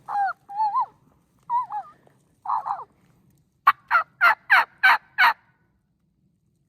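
Turkey calling: a few short wavering notes, then a loud gobble of six rapid notes lasting about a second and a half.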